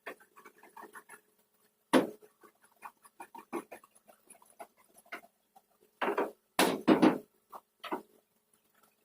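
Irregular small taps, clicks and scrapes of hand work, with one sharp knock about two seconds in and a few longer scraping strokes around six to seven seconds in.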